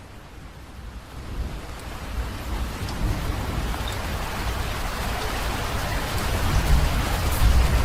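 Rain falling and swelling from light to heavy over the first few seconds, with a low rumble of thunder growing underneath toward the end.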